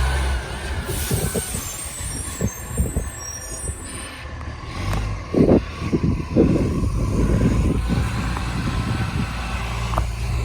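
Garbage truck with a leaking exhaust: the engine drone drops away at the start, air hisses about a second in, then comes a series of knocks and thumps, loudest about five and a half and six and a half seconds in, before the engine settles back to a steady low hum near the end.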